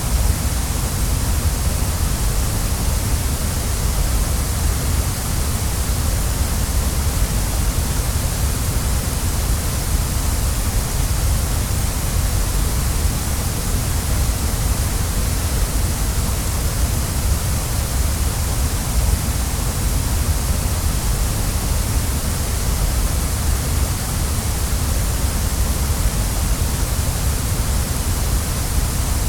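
Waterfall: a steady rush of falling water, a low rumble under a bright hiss, unchanging throughout.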